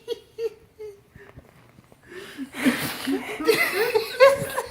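A pet's rapid, repeated short cries, about four a second, dropping off briefly and then coming back louder and higher from about halfway, mixed with wheezy laughter.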